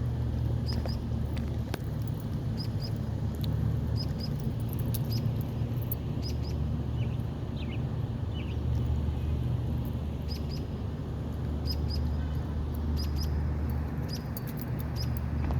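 Small bird chirping in short, sharp, high pairs every second or two, over a steady low rumble.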